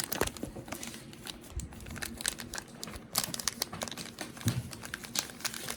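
Plastic packaging crinkling, with irregular light clicks and scrapes, as the kit's citric acid and baking-soda powders are handled and mixed.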